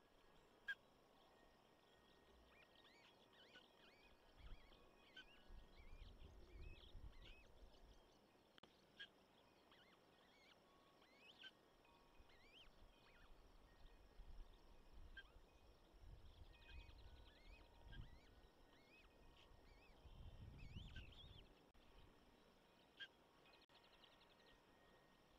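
Faint bird chirps and short rising and falling calls scattered throughout, over a quiet outdoor background. Two stretches of low rumble come in, a few seconds in and again near the end.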